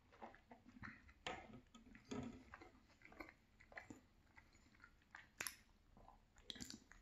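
Faint close-miked mouth sounds of a person chewing and swallowing marble cake: soft, irregular smacks and clicks, with one sharper click about five and a half seconds in.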